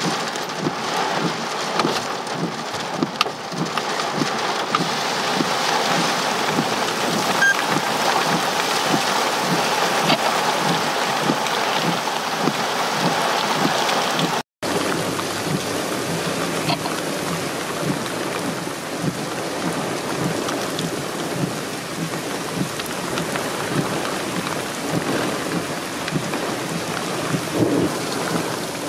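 Torrential rain falling steadily, with drops hitting the car around the windshield-mounted camera. The sound cuts out for an instant about halfway through, and then the downpour carries on at much the same level.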